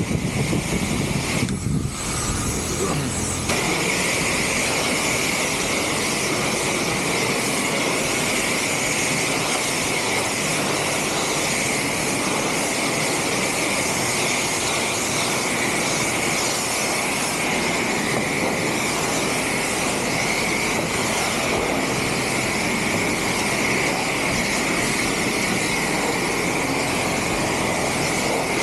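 Steady machine noise with a constant high whine, settling in about three and a half seconds in and running unchanged.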